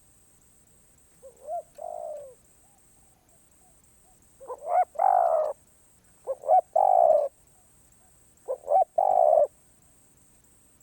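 Spotted dove cooing: four calls, each one or two short notes followed by a longer coo. The first is quieter, the last three louder.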